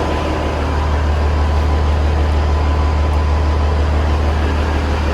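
Peterbilt 359 dump truck's diesel engine idling with a steady, deep drone.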